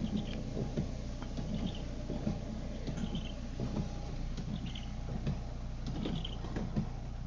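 Car cabin while driving in rain: steady engine and road rumble with small rattles and knocks, and a windshield wiper squeaking across the glass on each sweep, about every second and a half.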